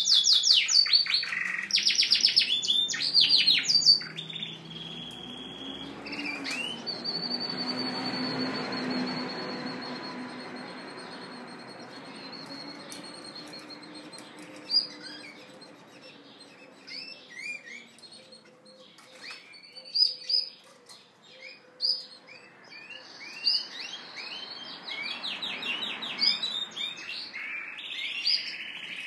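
Yorkshire canary cock singing courtship song: loud rapid trills for the first few seconds, a long held high note, then scattered chirps and trills that grow busier near the end.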